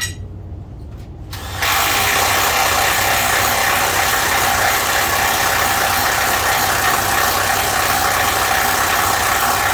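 A handheld power tool running hard and steadily with a rattling, mechanical sound, starting suddenly about a second and a half in, likely used to back out the screws holding the door trim.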